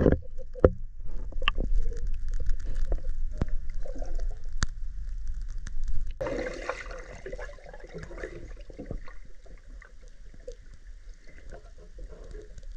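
Water splashing and gurgling, with scattered knocks and clicks over a low rumble. The sound changes abruptly about six seconds in to a steadier hiss and grows quieter toward the end.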